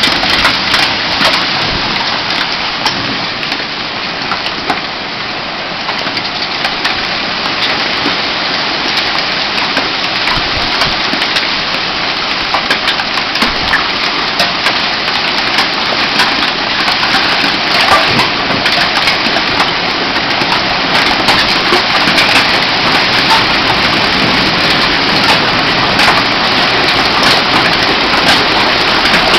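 Hailstorm: a dense hiss of hail and heavy rain, thick with sharp clicks of hailstones striking, growing a little heavier in the second half.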